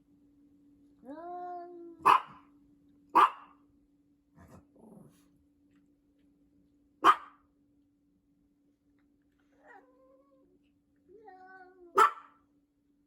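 A dog barking in four single sharp barks spaced irregularly, the first and last each preceded by a drawn-out pitched call that bends up in pitch, with a faint steady hum underneath.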